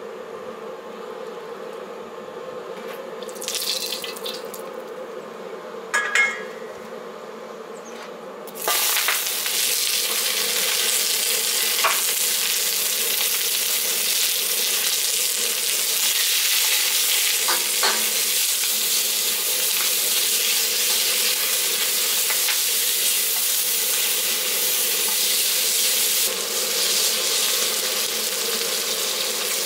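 High-output wok burner running with a steady hum, a short hiss and a clank in the first few seconds; about eight seconds in, bacon, onion and ginger hit the hot carbon steel wok and a loud sizzle takes over, with the ladle scraping and knocking as the food is pushed around. This is the seasoning fry that builds the wok's first coat of seasoning.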